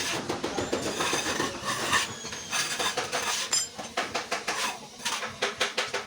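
Metal clinking and tapping in quick, uneven strokes, with a brief metallic ring about halfway through.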